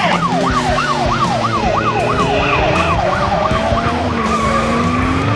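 Police car siren in yelp mode: a fast rising-and-falling wail, about three sweeps a second, slowing and easing off about four seconds in.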